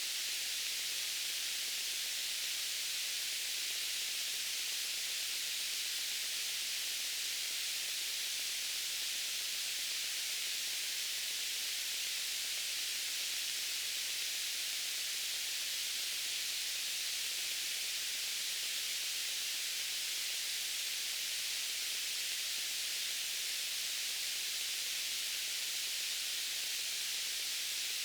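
Steady white noise: an even, high hiss that never changes.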